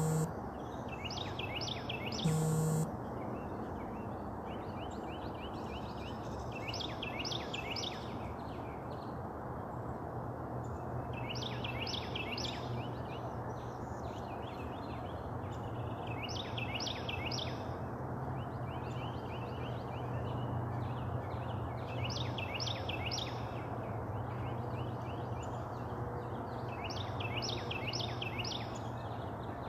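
A songbird singing a short phrase of four or five quick high notes, repeated about every five seconds, over steady outdoor background noise. A brief loud flat tone sounds about two seconds in.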